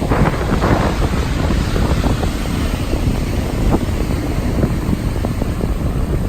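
Strong gusty wind rushing and buffeting the microphone in a windstorm.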